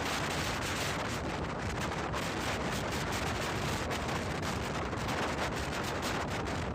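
Wind buffeting the microphone: a steady rushing noise with frequent crackling gusts.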